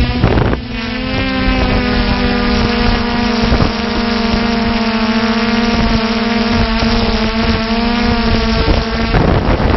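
A multirotor drone's motors and propellers whining steadily, with small shifts in pitch, over wind noise on the microphone; the whine drops out near the end, leaving only wind rush.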